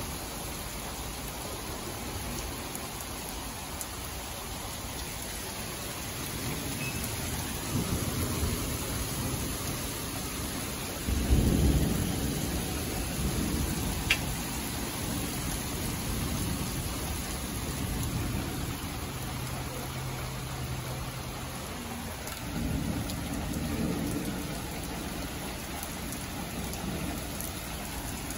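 Steady rain with rolling thunder: low rumbles build, a sudden loud clap about eleven seconds in rolls on for a few seconds, and another rumble follows near the end.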